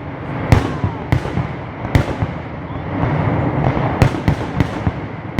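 Fireworks display: aerial shells bursting with sharp bangs, about half a second, one second and two seconds in and a quick run of three about four seconds in, over a continuous crackle.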